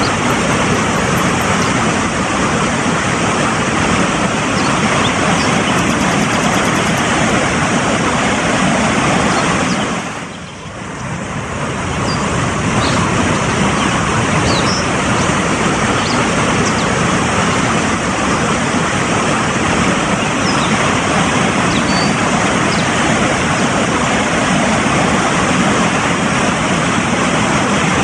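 Fast-flowing mountain stream rushing over rocks: a loud, steady wash of water noise that dips briefly about ten seconds in and swells back.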